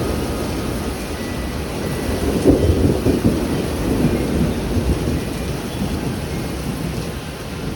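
Heavy rain pouring during a thunderstorm, under a long, low rumble of thunder that swells about two to three seconds in and slowly fades.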